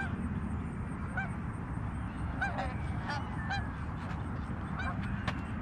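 A flock of Canada geese honking as they fly over, with many short calls scattered through, over a steady low rumble.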